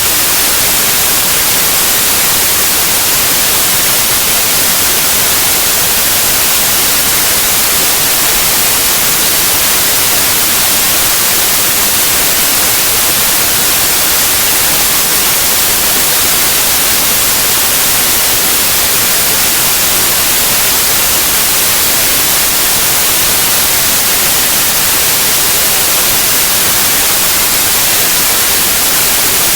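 Steady white noise: loud, unchanging hiss spread evenly across all pitches, brightest in the highs.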